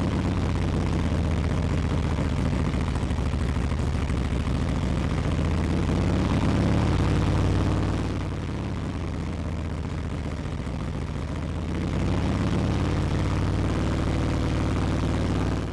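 Harley-Davidson V-twin engine, warmed up, running steadily at a fast idle of about 1800–2000 rpm in neutral while its cruise fuel mixture is adjusted toward the point where it runs smoothest. It drops a little in level for a few seconds past the middle, then comes back up.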